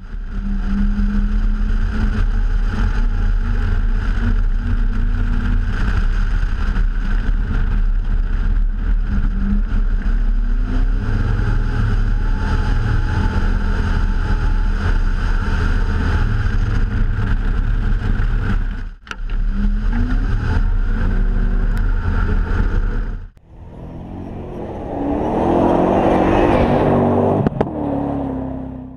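Car engine running under load as the car drives and slides across a snow-covered frozen lake, revs rising and falling, heard from a camera mounted on the car's side. The sound breaks off briefly twice, about 19 and 23 seconds in, and after the second break a car sound builds louder before fading near the end.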